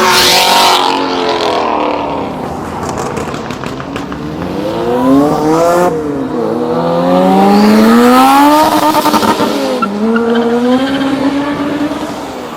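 A car accelerating hard away, its engine revving up and dropping in pitch twice as it shifts up through the gears, then holding a steadier note near the end. A loud rasping burst of noise comes with the first second.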